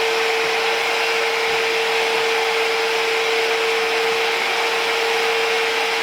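A body-shop power sander running steadily during body prep, with one constant whine over a rush of air.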